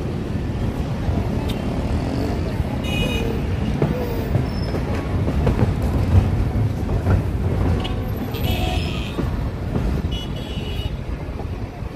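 Passenger train running, a steady low rumble throughout. Short high-pitched tones cut in three times: about three seconds in, again near eight and a half seconds, and once more near ten and a half.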